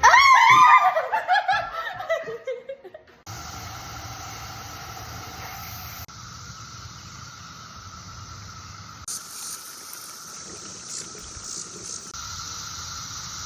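A person laughs for about three seconds, then a steady, shrill drone of a cicada chorus carries on to the end, broken by a few abrupt cuts.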